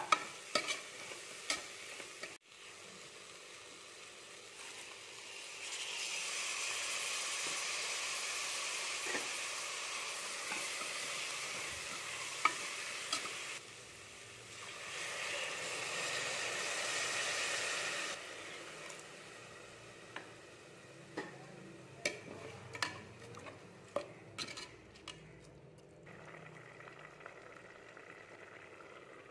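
Vegetables, masala and rice sizzling in an open pressure cooker pot while being stirred, with scraping and tapping against the pot. There are two long stretches of steady sizzle in the middle, and scattered sharp taps at the start and again near the end.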